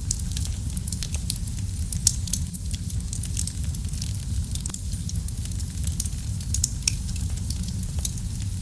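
Wood fire burning in a fireplace: a steady low rumble of flames with frequent small crackles and pops, one louder pop about two seconds in.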